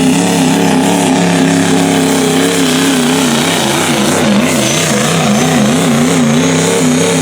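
Diesel pickup truck engine running flat out as it pulls the sled. Its pitch holds steady at first, then wavers up and down from about two and a half seconds in. A thin high whine joins in during the second half.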